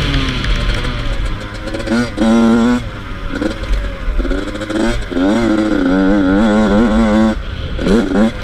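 Yamaha YZ85 two-stroke single-cylinder dirt bike engine revving hard, its pitch rising and falling in quick swings as the throttle is worked, with stretches of steady high revs about two seconds in and again from about five seconds in.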